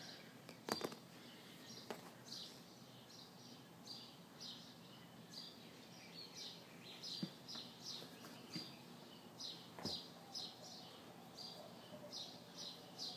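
A small bird chirping over and over in short, high, faint notes, with a few sharp clicks from handling objects, the loudest about a second in.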